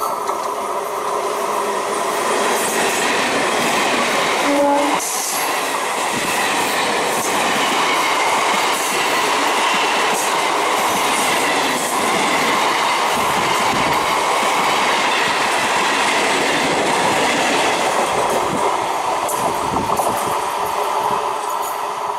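ICF Medha electric multiple-unit train running past at speed: a steady rush of wheels on rail with a run of clicks over the rail joints. A brief horn note sounds about four to five seconds in.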